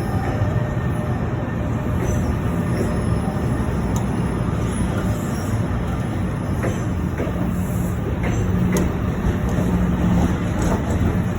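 A train running through a station, a steady rumble of wheels and running gear. A low hum strengthens partway through, with a few sharp clicks over it.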